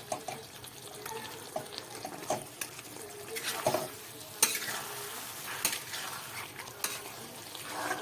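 Chicken strips being stirred with spices in a frying pan. A cooking utensil scrapes and knocks against the pan at irregular moments over a soft, steady sizzle.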